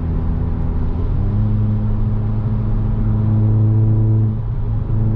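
Volkswagen Jetta 2.0 TSI turbocharged four-cylinder with a straight-through exhaust, running at steady cruising revs. About a second in the pitch steps up and holds a steady drone, then the engine eases off briefly near the end.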